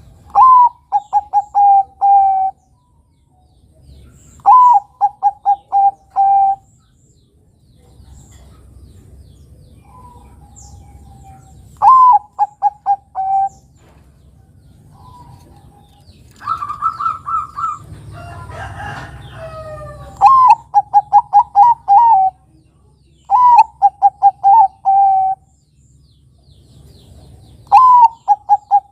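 Zebra dove (perkutut, Bangkok song type) cooing in repeated phrases: each begins with a clear note that drops in pitch, followed by a quick run of short staccato coos and a longer closing note. The phrase comes about every four seconds, with a higher-pitched phrase and a brief noisier patch around the middle.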